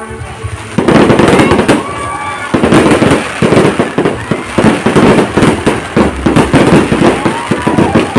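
Fireworks going off in a dense, rapid barrage of bangs and crackles that starts suddenly about a second in and keeps going, with people's voices underneath.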